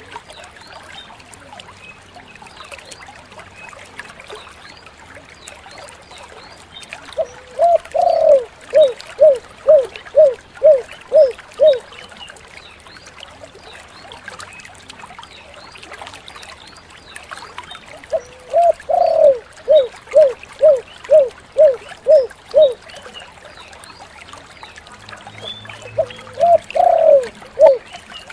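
Spotted dove (tekukur) cooing in three phrases about ten seconds apart. Each phrase is a longer opening coo followed by a quick run of short coos, each falling in pitch, about two to three a second. The third phrase starts near the end.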